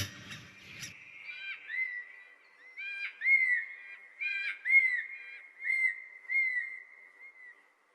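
A bird whistling a series of clear arching notes, some with a quick higher flick at their start, fading out toward the end. A loud harsh squawk cuts off about a second in.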